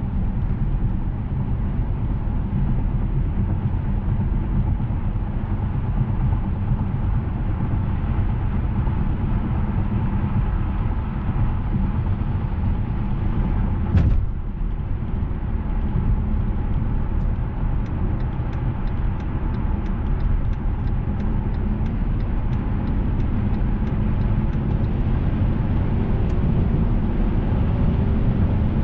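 Inside the cabin of a 2007 Mercedes-Benz S600 on the move: a steady low rumble from its twin-turbo V12 and the road. One sharp knock comes about halfway through. Faint, even ticking follows for several seconds, about twice a second.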